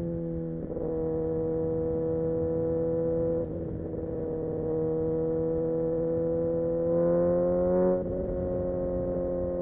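Kawasaki Ninja ZX-6R inline-four engine running at a steady cruise under light throttle, heard from the rider's helmet. The pitch holds nearly level, dipping briefly about three and a half seconds in and again near the end after a short rise.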